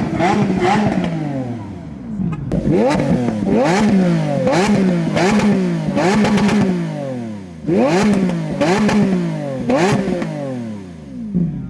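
Lamborghini Aventador SV's naturally aspirated V12 being revved while parked: a string of quick throttle blips, each climbing sharply and falling back, in bursts with short pauses between.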